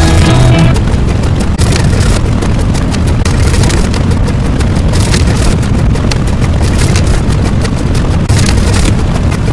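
A loud, dense rushing noise with rapid crackling, holding steady without a tune. Faint pitched music fades out in the first second.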